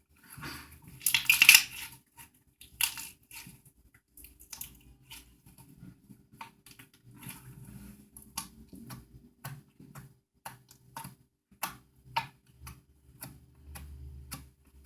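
Homemade green slime being squeezed and worked by hand, giving a loud squelch about a second in and then many short clicks and pops.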